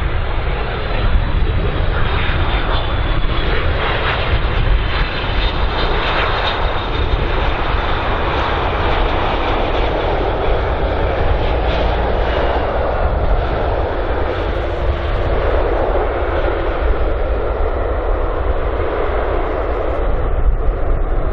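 Twin-engine Airbus A330 airliner landing, its jet engines giving a continuous rumble with a thin high whine that slowly falls in pitch over the first several seconds.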